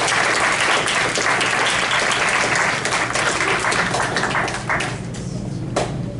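Audience applauding, dying away about five seconds in, with a last stray clap near the end.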